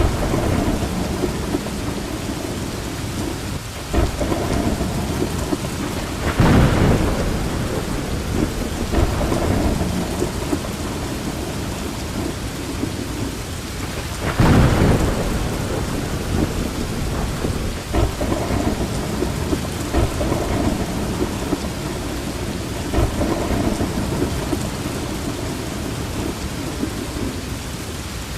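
Steady heavy rain with continuous rolling thunder rumbling underneath, swelling into two louder thunder peaks about a quarter and halfway through.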